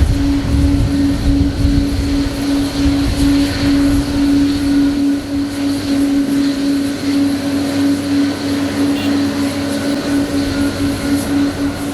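Boeing 777-300 jet airliner running: a steady, slightly pulsing hum with a faint high whine above it and a rumble that eases after the first few seconds. The hum stops near the end.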